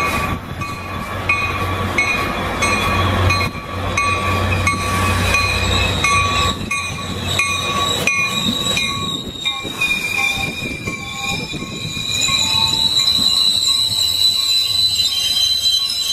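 Caltrain commuter train pulling into the platform, cab car leading, its wheels and brakes squealing in several high, steady, wavering tones over a low rumble, with regular knocks in the first few seconds.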